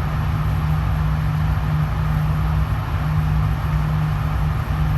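Steady low droning hum with a strong low tone, typical of an indoor shooting range's ventilation system; no shots.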